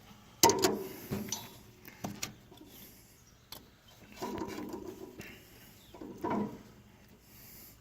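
Metal clinks and knocks of work on a tractor distributor: one sharp clink about half a second in, then a few lighter clicks and taps.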